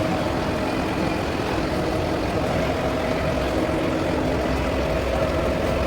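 A steady machine drone, engine-like, with a low rumble and a constant mid-pitched hum that does not change.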